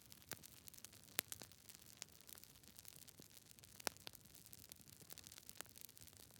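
Campfire burning close up: irregular crackles and sharp pops of burning wood over a faint steady hiss, with the strongest pops a little over a second in and about four seconds in.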